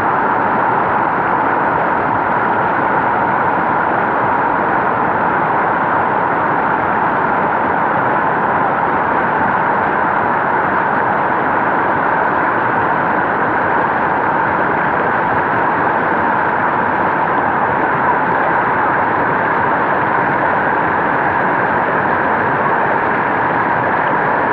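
Mountain stream rushing over rocks, a loud, steady rush of water.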